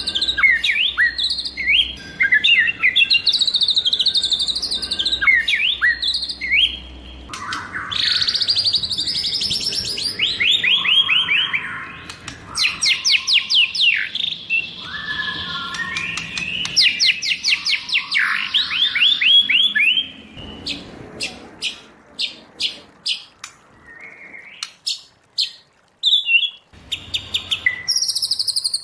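White-rumped shama singing a varied song: whistled and swept phrases, then long rapid trills of repeated notes, then a run of sharp separate clicks about two-thirds of the way through.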